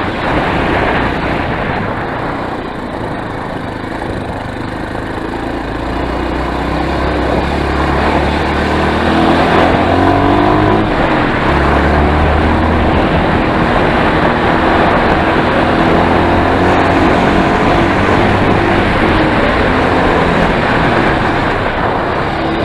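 Enduro motorcycle engine running under way, its pitch rising and falling with the throttle, with a steady rushing noise underneath.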